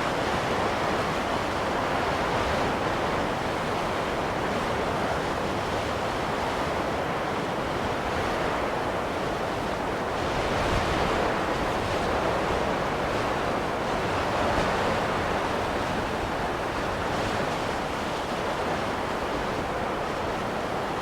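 Steady rushing wind of a snowstorm, swelling and easing gently every few seconds.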